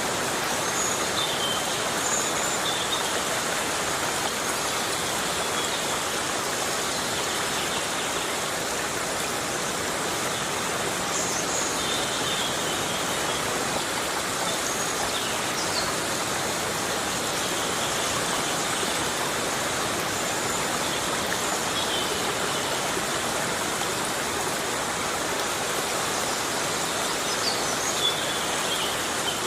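Heavy rain falling steadily in a rainforest: a dense, even hiss with no breaks. Faint short high chirps come in every few seconds.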